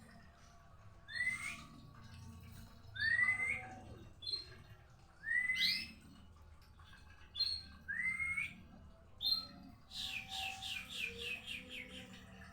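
White-rumped shama (murai batu) calling in an agitated, fired-up state ("murkah"). It gives a rising whistled note every couple of seconds with short higher notes between them. Near the end comes a fast run of about eight notes, each falling in pitch, at roughly four a second.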